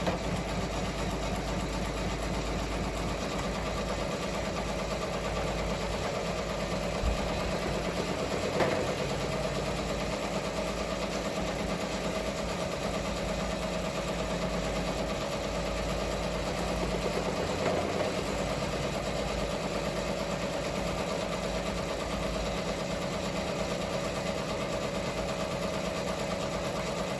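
Ricoma MT-1501 fifteen-needle embroidery machine stitching steadily at speed, a continuous even rapid clatter with a steady hum. There is one sharp click about eight and a half seconds in.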